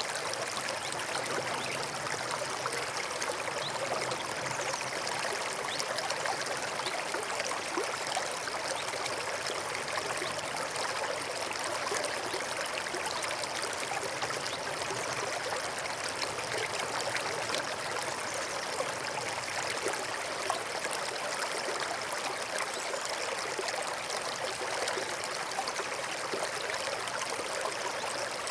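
A forest stream running steadily over stones, with a continuous babbling and trickling of water.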